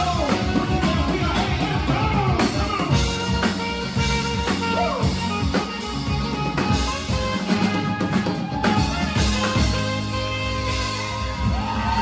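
Live yacht rock band playing an instrumental passage with a full drum kit, bass and guitar. A lead line bends up and down in pitch over a steady beat.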